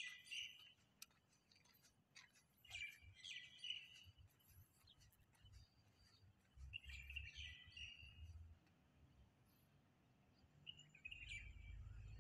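Faint bird chirps in short bursts, about four times, a few seconds apart, over a low rumble that comes and goes.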